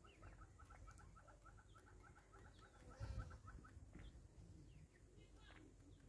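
A bird giving a fast, even series of clucking notes, about four or five a second, which stops a little past halfway. There is a low thump about three seconds in, and a few faint chirps near the end.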